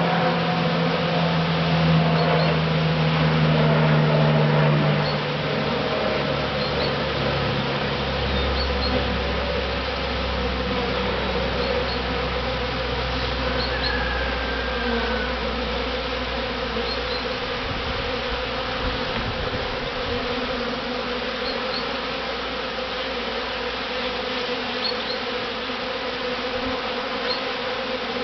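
A swarm of honeybees buzzing around their newly occupied hive box: a dense, steady hum of many wings, louder for the first five seconds or so.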